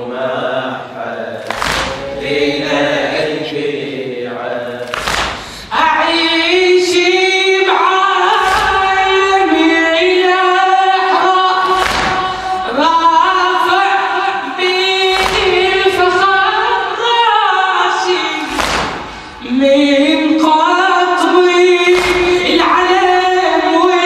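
Shia latmiyya: a group of male voices chants a refrain for about the first six seconds, then a single reciter (radood) sings long, ornamented lines without instruments. Regular thumps of chest-beating (latam) keep time, about one every second and three quarters.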